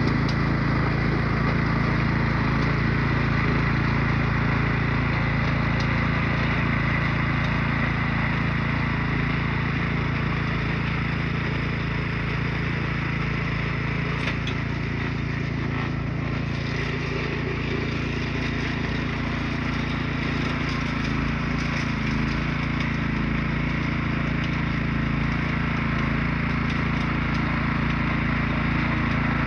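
Newly installed small engine running steadily at an even speed.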